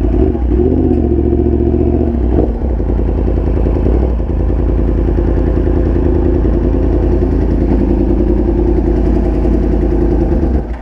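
Motorcycle engine running close to the microphone, a steady pitch after some changes in the first couple of seconds; the sound drops off sharply near the end.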